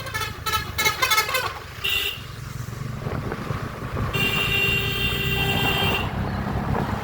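Motorcycle engine running under a string of horn sounds: a run of quick pulsing toots in the first second or so, a short beep about two seconds in, then one long steady horn blast lasting about two seconds.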